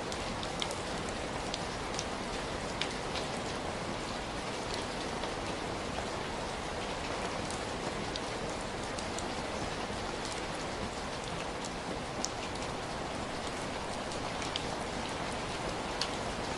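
Steady rain falling on a surface, an even hiss with scattered distinct drops ticking through it.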